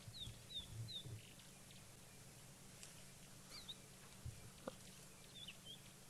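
Faint small-bird chirps: short, high notes that drop in pitch, three in quick succession in the first second, then a few more scattered later, over quiet bush ambience with a couple of soft low thuds.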